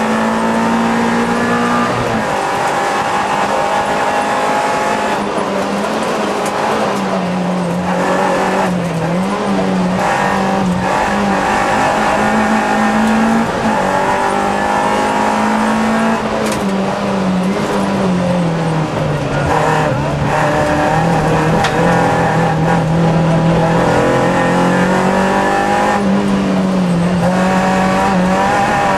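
Citroën Saxo rally car's engine heard from inside the cabin at racing speed, its revs rising and falling through the bends with several sudden drops and breaks in pitch.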